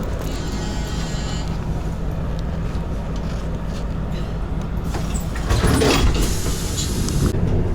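Bus engine running with a steady low hum and road rumble, and a louder rush of noise about five and a half seconds in.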